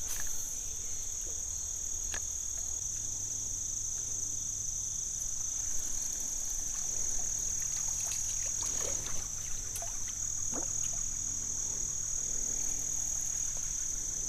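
Insects trilling in a steady, unbroken high-pitched chorus, with a few faint clicks and taps scattered through it.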